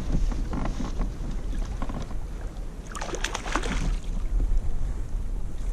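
Wind buffeting the microphone on a kayak, a steady low rumble, with a brief cluster of sharp noises about three seconds in.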